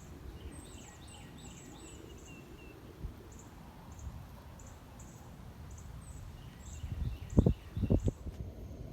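Birds singing in the background: a high, short chirp repeated about twice a second, with bits of other song. Two loud low thumps come near the end.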